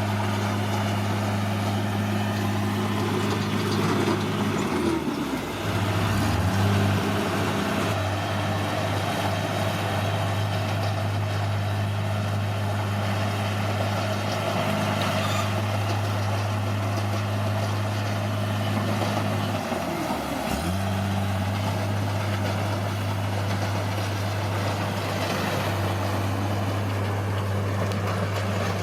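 Bulldozer's diesel engine running steadily, with its pitch dipping briefly about five seconds in and again about twenty seconds in.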